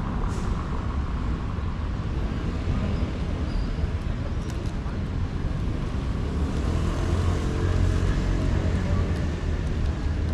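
City street ambience: a steady low rumble of road traffic, a little louder around seven seconds in.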